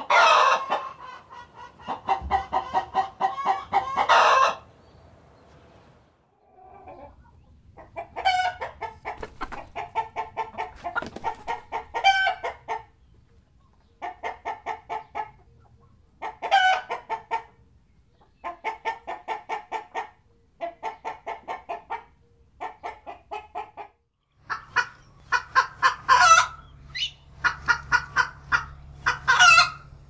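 Hens cackling: bouts of rapid clucks a couple of seconds long, several ending in a louder drawn-out squawk, repeated with short pauses in between. This is the cackle hens typically give, loudest after laying an egg.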